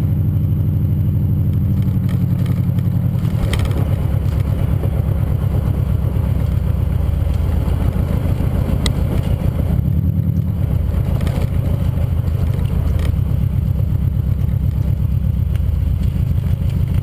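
2002 Subaru Outback's 2.5 L EJ25D flat-four running at low, steady engine speed through an HKS Hi-Power titanium axle-back exhaust. The note shifts about three and a half seconds in, with a few faint clicks along the way.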